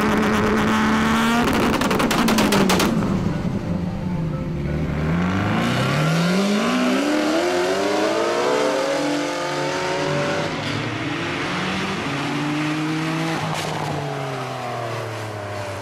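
High-performance car engines: one holds a steady high rev, then comes a rapid run of sharp exhaust cracks. After that an engine accelerates hard with its pitch climbing, then settles to a steadier lower note.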